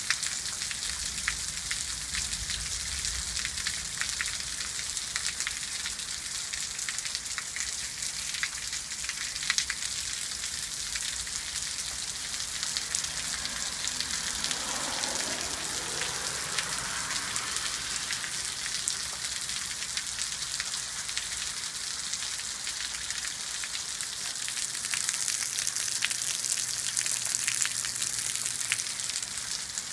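Steady rain: a constant hiss with many scattered drop ticks. Near the middle, a fainter sound sweeps up and down in pitch over a few seconds. The rain hiss grows a little louder near the end.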